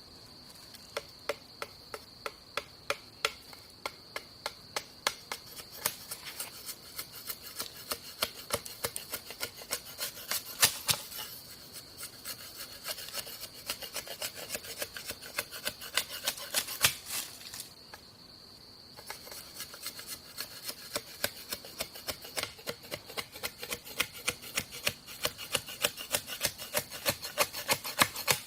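Repeated short scraping strokes, about two to three a second, with a brief pause partway through, over a steady high insect drone.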